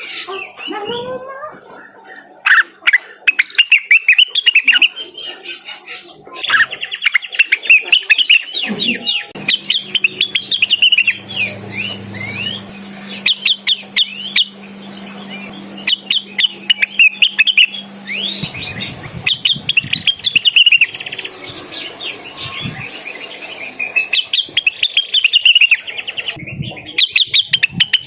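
Cucak wilis (blue-winged leafbird) singing in full, fast song: rapid chattering runs of short high chirps and sweeps, coming in bursts with short breaks.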